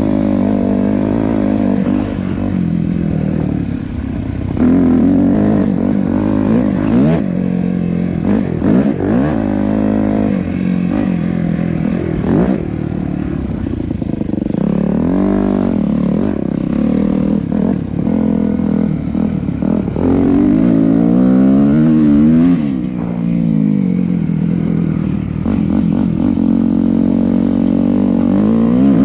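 Yamaha YZ250F's single-cylinder four-stroke engine running under load, its pitch climbing and falling again and again with the throttle.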